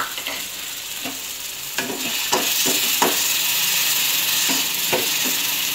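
Freshly added curry leaves, with onion, garlic, green chilli and tomato, sizzling in hot oil in a kadai. The sizzle grows louder about two seconds in, as a spatula stirs the pan with several sharp scraping strokes.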